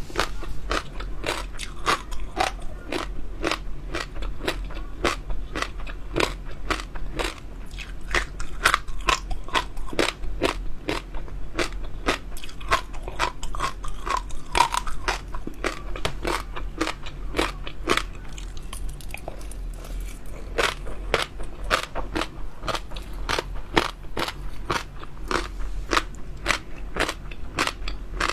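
Close-miked chewing of crunchy jelly pearls: rapid crackling crunches, several a second, that ease off briefly about two-thirds of the way through.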